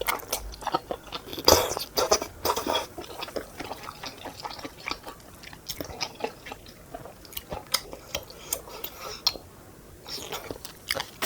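Close-miked chewing and biting of food, with many short, irregular clicks and a few crunches.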